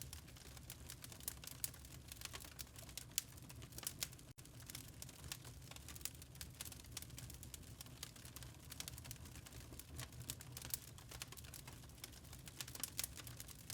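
Wood fire crackling in a fireplace: a steady run of irregular small pops and snaps over a low, even rumble. The sound cuts out for an instant about four seconds in.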